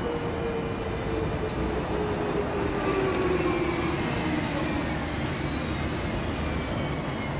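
Tram running, with a steady rumble and a motor whine that slowly falls in pitch.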